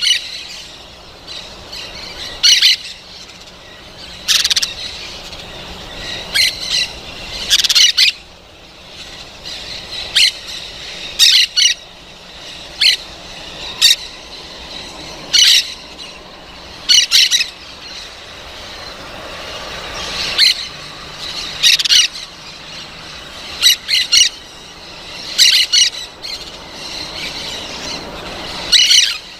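Parrot calls: short, loud, harsh calls repeated every second or two.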